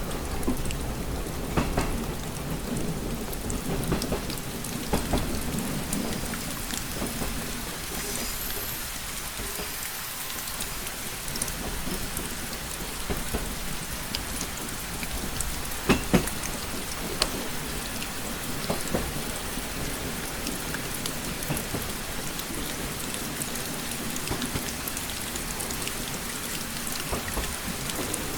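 Steady rain pattering on a window glass, with scattered sharper drop taps; the loudest are two taps about 16 seconds in. A low rumble sits underneath, strongest in the first few seconds.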